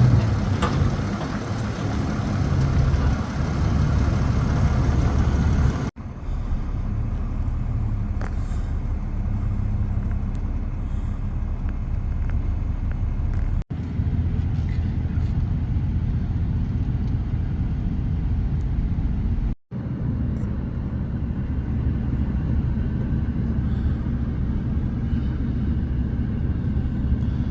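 Steady low rumble of a motor vehicle driving on the road, with engine and tyre noise, broken abruptly three times where the recording cuts.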